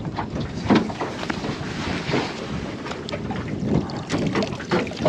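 Wind buffeting the microphone over water sloshing around a small aluminium boat, with several short knocks and splashes scattered through.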